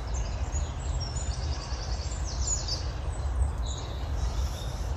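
Small songbirds singing, with high, quick trills of repeated notes, over a steady low rumble.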